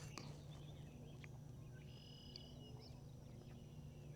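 Near silence: faint steady background hum with a few faint high chirps about halfway through.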